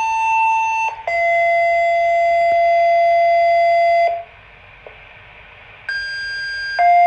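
Fire department dispatch paging tones, two-tone sequential style: a steady tone for about a second, then a lower tone held for about three seconds. After a short pause a second pair starts, a higher tone for about a second followed by a lower one, alerting volunteer firefighters to a call.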